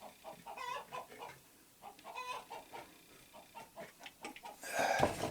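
A bird clucking, with repeated short pitched calls. A brief louder rustle or clatter comes near the end.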